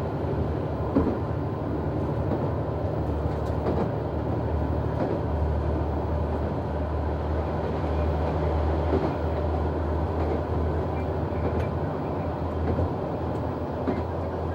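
Noto Railway NT100 diesel railcar running between stations: a steady low engine drone under the rumble of the wheels on the rails, with a few faint clicks from the track.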